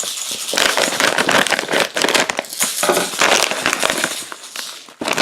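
A plastic snack bag of caramel chips crinkling and crackling as it is handled and opened.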